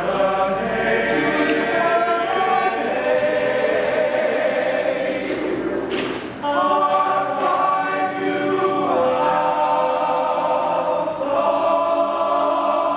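Vocal music: several voices singing long held notes together, choir-like, with a short break about six seconds in.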